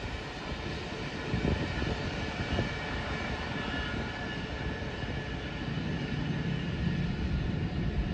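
Steady rumble of a Norfolk Southern covered-hopper freight train rolling away on the track, with scattered low knocks.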